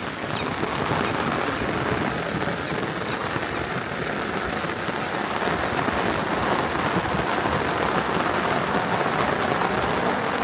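Heavy rain falling steadily, a dense even hiss, with a run of short, high, falling chirps over the first few seconds.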